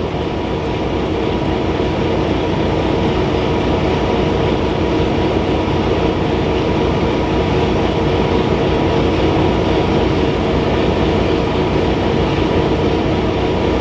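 Semi-truck diesel engine running steadily in the cab, with even tones over a low rumble, while its air compressor builds brake air pressure toward the governor cut-out.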